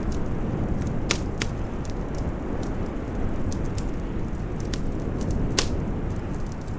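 Wood fire crackling, with scattered sharp pops, three of them louder, over a steady low rush of storm wind.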